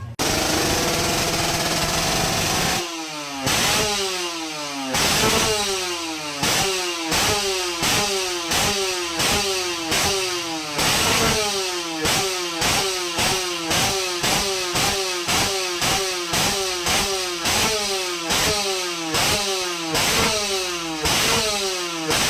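Kawasaki Ninja SS two-stroke motorcycle engine revving through its restored exhaust: held high for about three seconds, then blipped over and over, the revs falling back after each blip, one to two blips a second.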